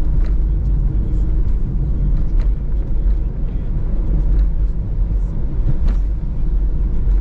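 Peugeot Partner microcamper van driving on the road: a steady low rumble of engine and tyres, with a few faint clicks or rattles.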